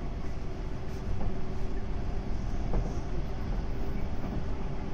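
Running sound of a JNR 185 series electric train from inside the car: a steady rumble of wheels on rail with a steady hum and a few faint knocks.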